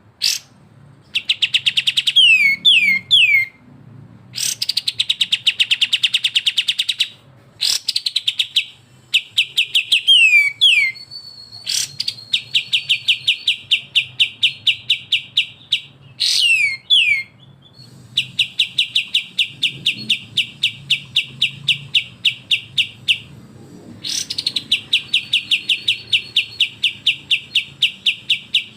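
Bulbuls (kapas tembak and cucak jenggot cage birds) giving besetan calls: rapid runs of short repeated notes, about five a second, each run lasting a few seconds, broken by quick downward-slurred whistles.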